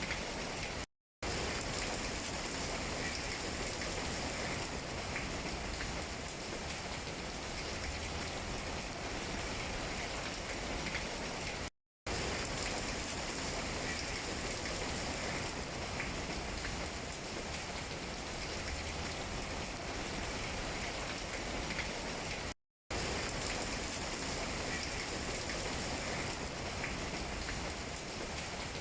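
Steady rain pattering on tree leaves, an even hiss of many drops. The sound cuts out to silence for an instant three times, about eleven seconds apart.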